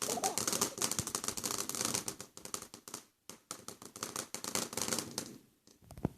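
Fireworks crackling: a dense, rapid, irregular crackle of many small pops that breaks off briefly about three seconds in and stops about five seconds in.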